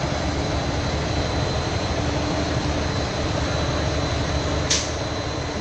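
Heavy vehicle engine running steadily with a low rumble, and one short hiss near the end.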